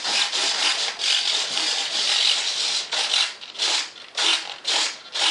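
Hand sanding: rough rubbing that runs unbroken for about three seconds, then breaks into separate strokes about twice a second.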